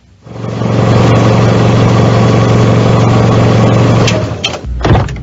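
Car engine running at a steady idle, stopping about four seconds in, followed by a few sharp clicks and knocks.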